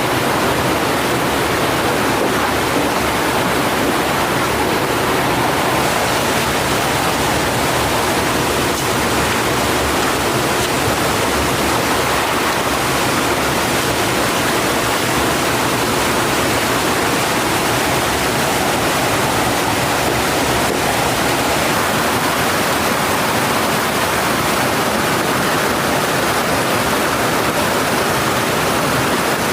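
Mountain stream water rushing over rocks, a loud steady hiss of flowing water.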